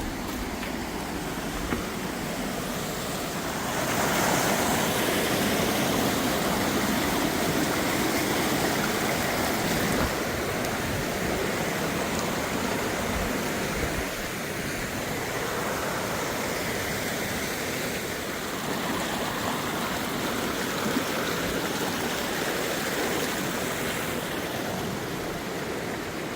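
Rushing stream or river water, a steady noise that grows louder about four seconds in.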